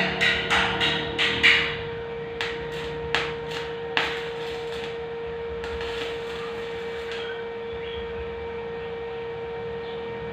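A hammer striking hollow steel tubing: about a dozen quick, sharp blows in the first four seconds, then they stop. A steady hum runs underneath.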